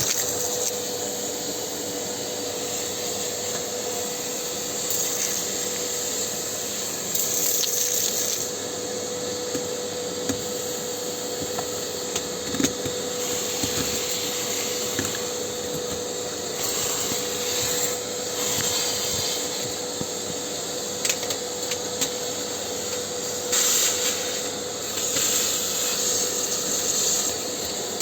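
Vacuum cleaner running steadily, a constant motor hum under a rushing airflow hiss that swells now and then as it sucks up filler dust from a fireplace duct. A few light knocks are heard along the way.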